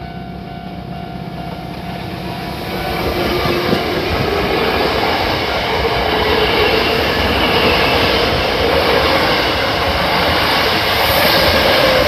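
Electric train running through the station. It grows louder about two and a half seconds in and stays loud, with a whine that rises slightly in pitch.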